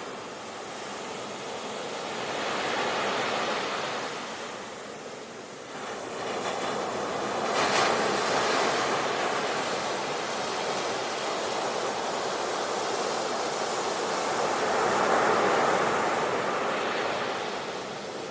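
Sea waves breaking and washing up the shore, the surf swelling and fading in three slow surges, with one sharper breaking crash a little before halfway.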